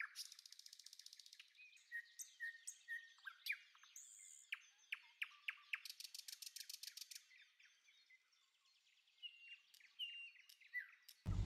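Small birds chirping faintly in the background: short chirps and quick pitch glides, with a fast trill at the start and another about six seconds in.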